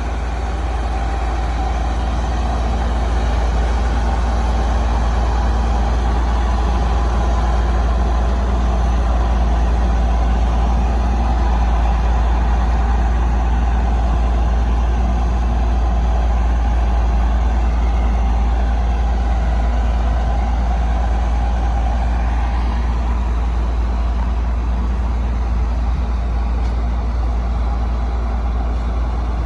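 Heavy diesel earthmoving machinery running steadily, with a deep low rumble.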